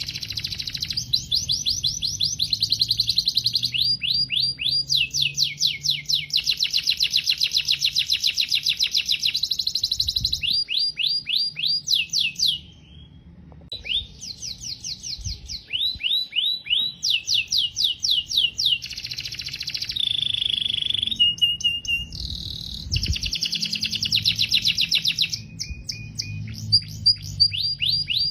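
Domestic canary singing a long song of fast trills, runs of rapidly repeated notes changing from phrase to phrase, with a short pause about halfway through.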